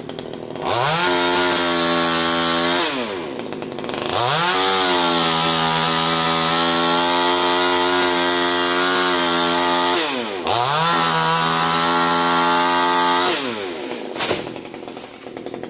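Small top-handle chainsaw revved up from idle three times, held at full speed for a few seconds each (the middle run about six seconds) and dropping back to idle in between, as it cuts angsana wood. A short sharp knock near the end.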